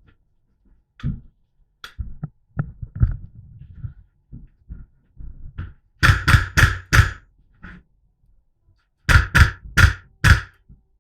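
Airsoft rifle fired in two quick strings of four shots, each about three a second, the second string about three seconds after the first, with lighter knocks and rustling of movement before them.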